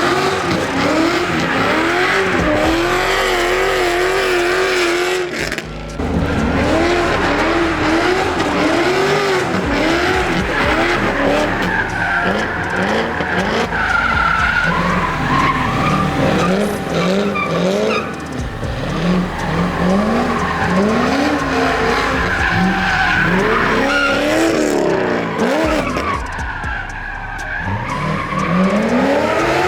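Drift car's engine revving up and down again and again, pitch rising and falling about once a second and briefly held high, over the hiss of tyres skidding and squealing as the car slides.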